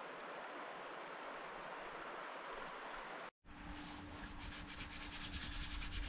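Steady rush of a flowing river. It cuts off abruptly a little past the middle and gives way to a low rumble and rubbing noise with a faint steady hum.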